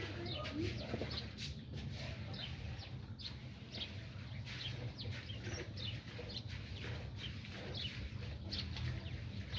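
Chicks peeping over and over in short, high, falling notes, with a few lower calls near the start and a steady low hum underneath.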